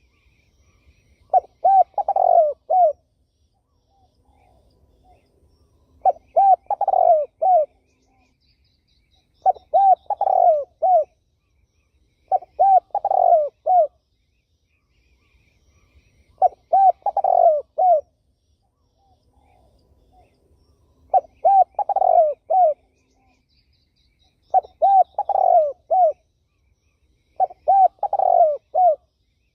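A spotted dove (terkukur) cooing: eight short phrases of several low coos each, repeated every three to four seconds with pauses between.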